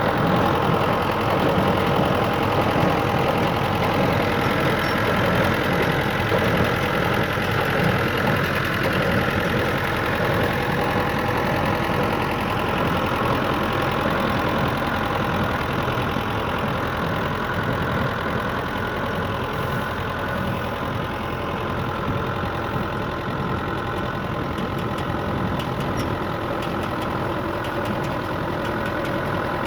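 SIDENA tractor engine running steadily.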